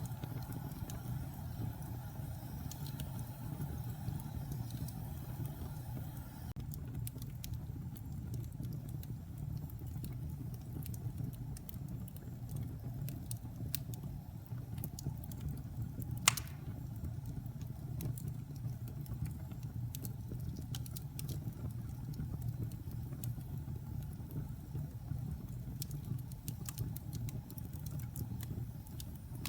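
Wood fire burning in a fireplace: a steady low rumble of flames with scattered small crackles and one sharp, loud pop about 16 seconds in.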